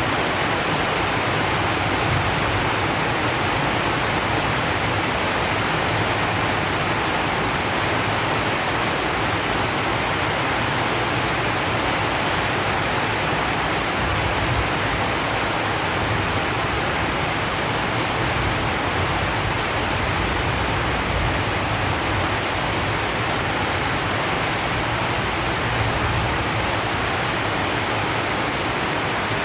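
Steady, dense rain falling on a corrugated zinc roof, an even hiss of many drops with no single strikes standing out.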